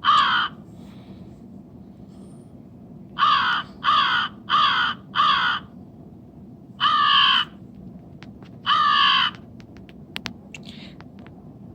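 A crow cawing: one caw, then a quick run of four caws, then two longer caws.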